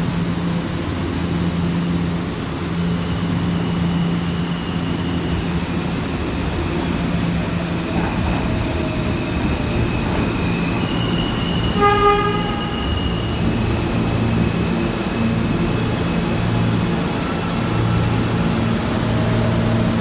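New York City subway train moving through an underground station: a steady low rumble and hum of motors and wheels, with thin high tones coming and going above it. About halfway through, a short horn toot sounds.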